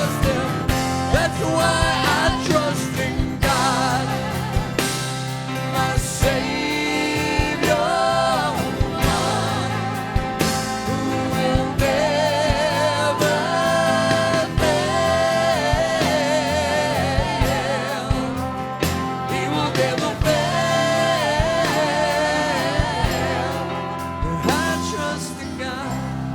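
Worship band playing, with sung vocal lines over sustained keys and a steady drum beat. It fades down near the end.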